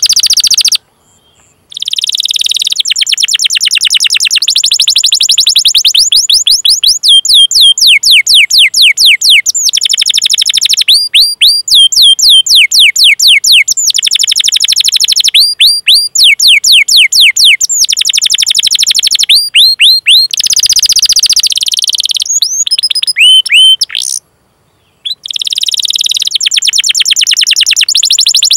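Domestic canary singing long rolling runs of rapid 'cuit cuit' chirps, about ten high notes a second, each sweeping down in pitch. The song breaks off twice for about a second.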